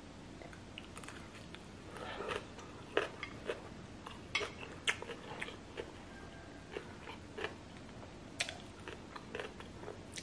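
A person chewing a mouthful of noodles, with irregular wet clicks and smacks of the mouth.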